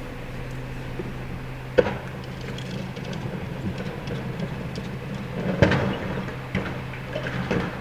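Garbage truck engine running steadily, with a sharp bang about two seconds in and a louder burst of knocks and clatter about five and a half seconds in, then smaller knocks near the end.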